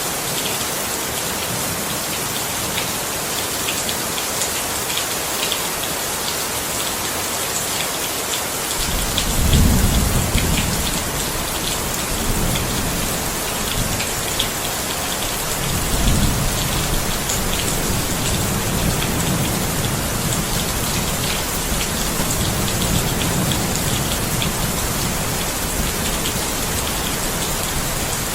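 Steady rain falling, with rolling thunder coming in about a third of the way through. The thunder swells to its loudest right away, peals again about halfway, and keeps rumbling under the rain to the end.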